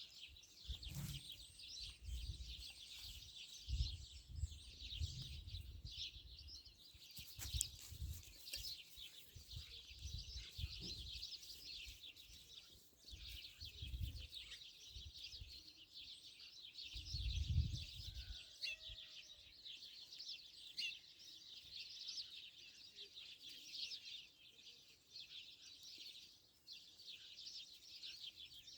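Many birds chirping in a dense, continuous high chatter, with intermittent low rumbles underneath.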